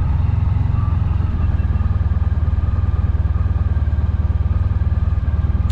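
Honda VFR1200X Crosstourer's V4 engine running steadily at low revs, a deep even throb with no revving.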